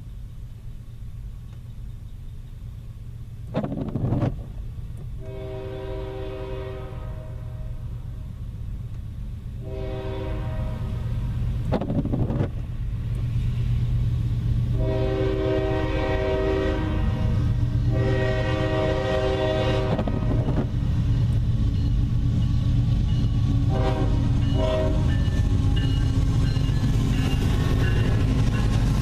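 A Nathan K5HL five-chime air horn on a CSX freight locomotive sounds four long blasts, then two short ones near the end, over the diesel rumble of the approaching train, which grows steadily louder. It is heard from inside a car, with a couple of sharp knocks early on.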